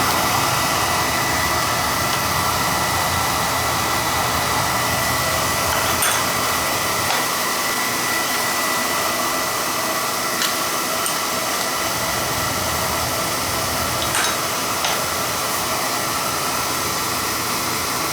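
Beckett oil burner firing steadily, its blower and flame making a constant rushing noise, with a few faint ticks.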